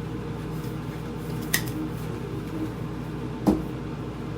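Kitchen dish and utensil sounds: a sharp clink about a second and a half in, then a louder knock about three and a half seconds in, over a steady low hum.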